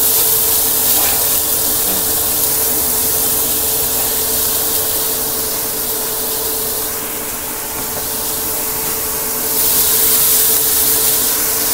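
Shredded young papaya sizzling in a hot oiled wok as it is stirred, a steady hiss that eases a little past the middle and swells again near the end. A steady low hum runs underneath.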